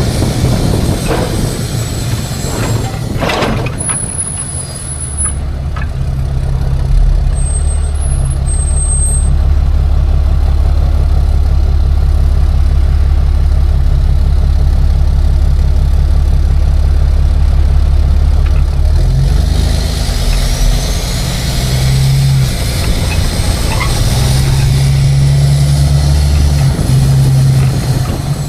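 Tow truck engine running while driving, a loud steady low drone whose note changes a few times.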